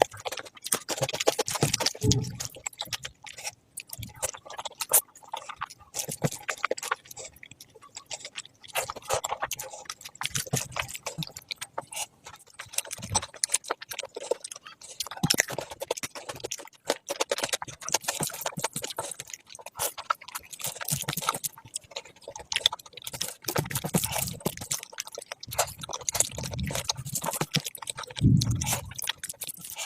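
Close-miked eating sounds: wet chewing and smacking of oily curry and rice, an irregular dense run of clicks and squelches, with a few short deeper sounds about two seconds in and again near the end.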